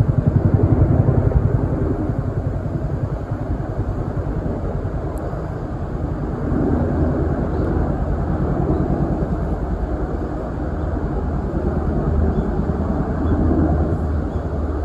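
Steady low outdoor rumble, loudest at the start and swelling slightly a few times. No birdsong stands out.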